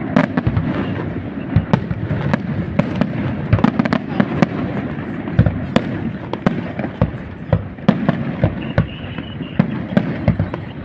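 Aerial fireworks display: a dense, irregular string of bangs and crackling reports, several a second, over a continuous rumble.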